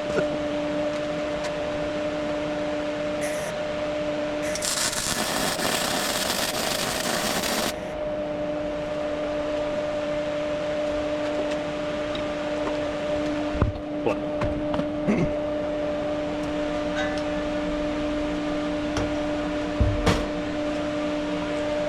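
Welding set humming steadily in a small workshop, with a burst of arc hiss lasting about three seconds, starting around four and a half seconds in, as a short weld run is laid. A few light knocks and clicks follow.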